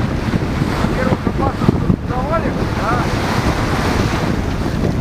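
Wind buffeting the microphone over the steady rush of sea water aboard a sailing yacht under way.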